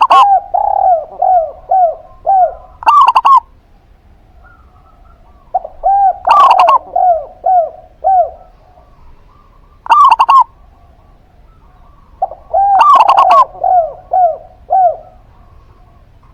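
Zebra dove and spotted dove cooing, phrase after phrase, about every three seconds. Each phrase is a loud double note followed by a quick run of short, falling coos.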